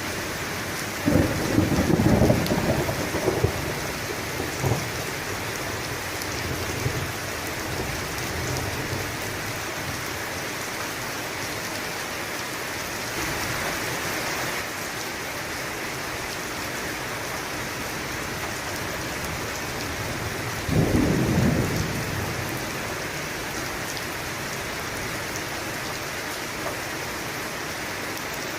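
Steady rain with two claps of thunder: one about a second in that rumbles on for a few seconds, and a shorter one about three quarters of the way through.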